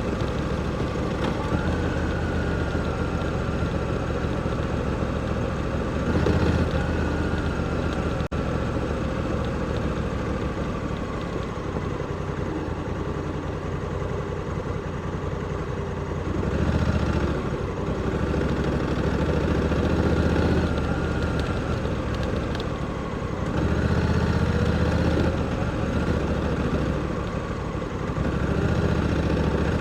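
Honda Africa Twin 1100's parallel-twin engine heard onboard at low speed, idling and pulling, with the throttle opened several times so the engine note swells and falls back.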